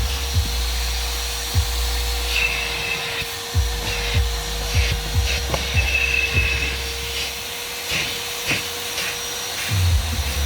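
Vacuum cleaner converted into a wet extractor, running steadily with a constant whine while its nozzle is worked over car-seat upholstery, with irregular knocks and scrapes. The low rumble drops away about three quarters of the way through and comes back near the end.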